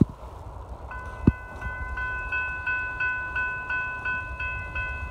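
Railroad grade-crossing bell starts ringing about a second in, with evenly repeated dings about three times a second, signalling that a train is approaching. Two sharp thuds come before it, one at the very start and one just after the bell begins.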